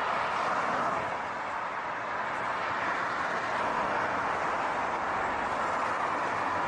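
Steady running noise of a vehicle in motion, an even rush with no distinct events.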